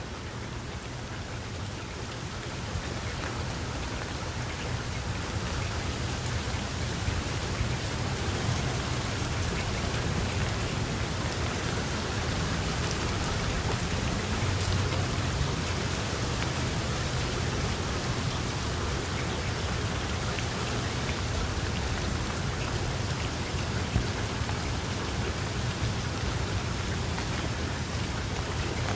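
Steady, dense rain falling and pattering on surfaces, with a low rumble underneath; it swells over the first several seconds and then holds steady.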